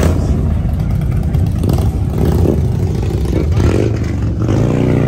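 Car engine running with a deep, steady rumble; about four and a half seconds in it revs, its pitch rising.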